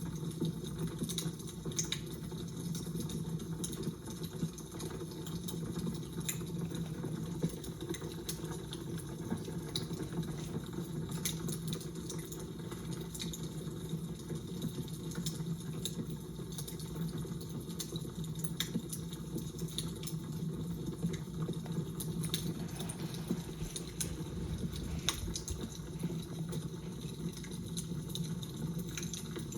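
Crackling fire: a steady low rumble with scattered sharp pops and snaps throughout.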